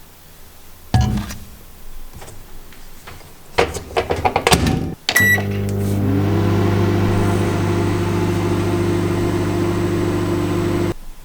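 Microwave oven being started: a knock from the door shutting, a run of button clicks and a short beep, then the oven running with a steady electrical hum that cuts off suddenly near the end.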